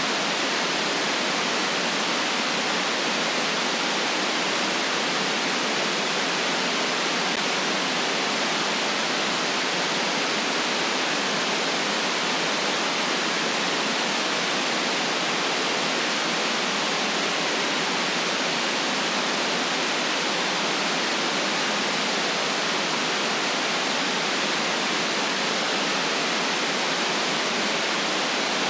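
Steady electronic white noise: an even, unchanging hiss with no variation, cut off sharply at the low and high ends.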